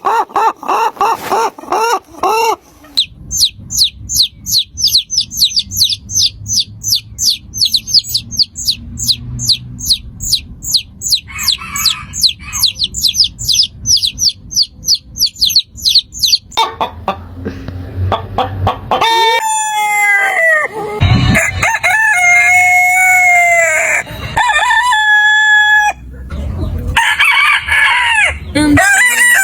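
Domestic chickens: a hen clucking rapidly at first, then a chick peeping in a long, even series of high, falling cheeps, about three or four a second, and in the last ten seconds roosters crowing several times.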